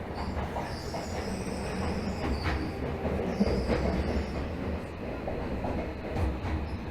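Tokyo Metro 13000 series subway train heard from inside the car as it runs into a station: a steady running rumble with a few sharp clicks from the wheels, and a high squeal from about half a second in to about four and a half seconds.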